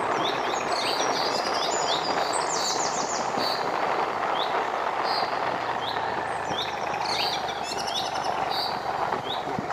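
Wild birds chirping in many short, repeated high notes, busiest about two seconds in and again around seven seconds, over a steady background rush.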